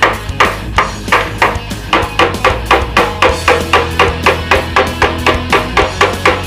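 Steady hammer blows on a steel motorcycle gas tank, about three a second, beating out dents, with background music under it.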